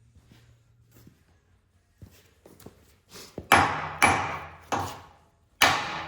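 Hammer striking the steel bolt threaded into a skid steer's tapered Bobtach pin: a few light taps, then four hard ringing metal blows in the second half, driving the friction-locked pin loose from the arm.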